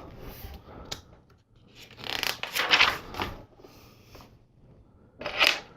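Hands handling small plastic LEGO pieces: plastic rubbing and scraping, with a sharp click about a second in and a stretch of louder rustling about two to three seconds in.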